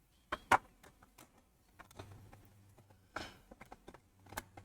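Hard plastic model-kit parts clicking and knocking together as they are handled and test-fitted: a handful of sharp clicks, the loudest about half a second in, and a brief scrape a little after three seconds.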